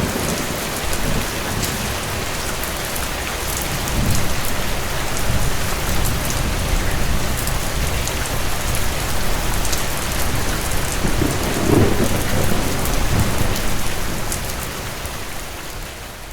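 Steady rain with low rumbles of distant thunder that swell twice, about four and twelve seconds in, fading out near the end.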